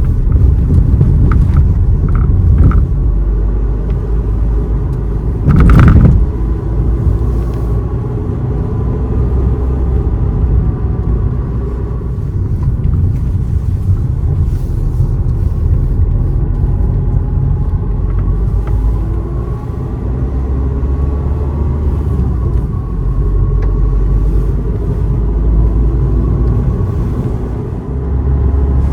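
A car being driven, with a steady low rumble of engine and road noise. A brief loud rush or thump cuts through it about six seconds in.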